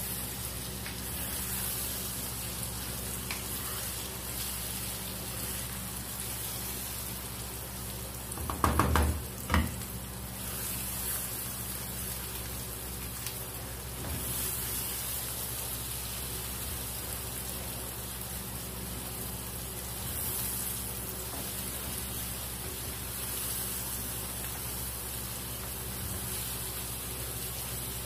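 Egg, onion and tomato masala frying in oil in a nonstick karahi, with a steady sizzle while it is stirred and scraped with a wooden spatula. A brief louder clatter comes about nine seconds in.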